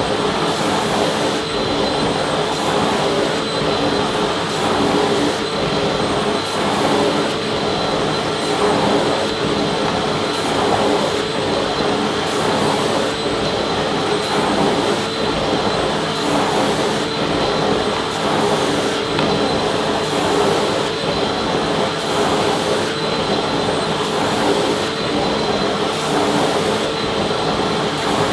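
Vacuum cleaner running steadily: a continuous rushing of air with a steady whine of its motor, unchanging throughout.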